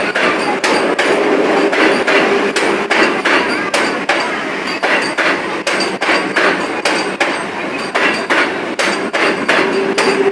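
Vande Bharat Express electric train running past, its wheels clacking rapidly and fairly evenly over rail joints, with a faint steady tone underneath.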